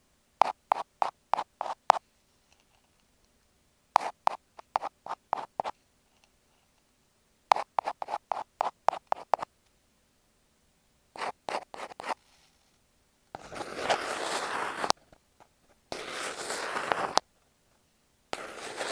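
Ear pick scratching on an earphone microphone. First come four quick sets of short strokes, about four a second. From about two-thirds of the way in, these give way to three longer spells of continuous scraping.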